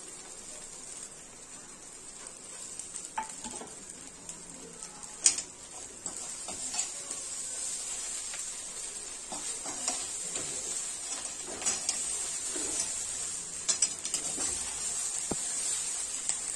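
Cubed idli pieces frying in oil in a metal pan with a steady sizzle that grows louder partway through, while a metal slotted spoon stirs and tosses them, clinking and scraping against the pan now and then.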